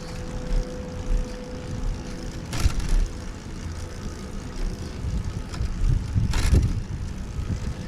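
Wind and road rumble on the microphone of a recumbent bike being pedalled slowly uphill. A faint steady hum fades out in the first few seconds, and there are two short noisy puffs, about two and a half and six and a half seconds in.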